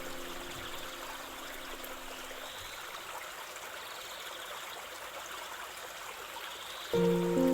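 A stream running and trickling steadily, under soft relaxation music: held low notes fade out about a third of the way in, and a new, louder chord comes in near the end.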